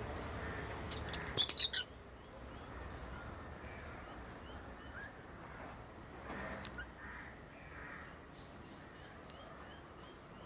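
Lovebirds calling: a quick run of four or five loud, shrill chirps about a second and a half in, then softer, scattered chirps for the rest.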